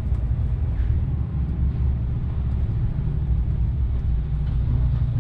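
Lorry's diesel engine running with a steady low rumble, heard from inside the cab.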